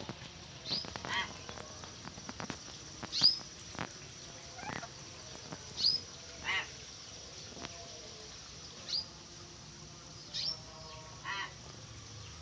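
Caged birds calling: short, sharp high whistles about every two to three seconds, mixed with a few harsher honking calls.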